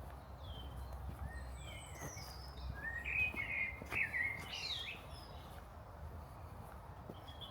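Small songbirds chirping and singing, with a louder run of warbled song about three to five seconds in, over a steady low outdoor rumble.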